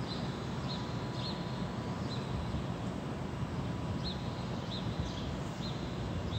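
Outdoor ambience: a steady low rumble, with short, high chirps of small birds coming about once a second at uneven intervals.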